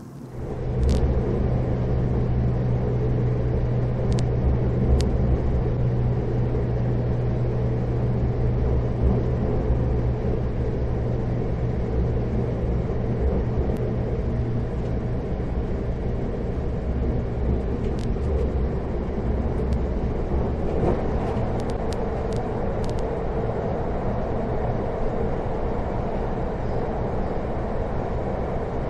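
Running noise heard from inside a moving passenger train: a steady loud rumble with a low hum, starting abruptly about half a second in, with a few sharp clicks scattered through it, several close together about two-thirds of the way through.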